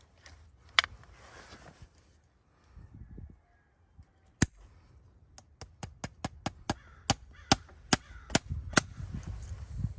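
A run of sharp clicks: one about a second in, another near the middle, then about a dozen quick clicks that come closer together at first and then spread out, over a low rumble.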